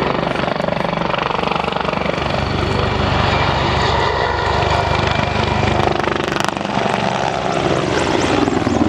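Mil Mi-24 Hind attack helicopter flying, with the low, steady beat of its main rotor over the rushing whine of its twin Isotov TV3-117 turboshaft engines.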